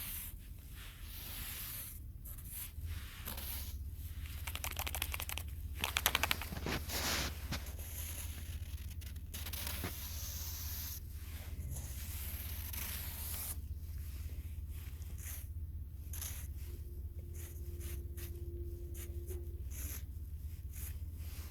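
Irregular rustling, scraping and tearing sounds of hands handling garden material, loudest about six seconds in, over a steady low hum.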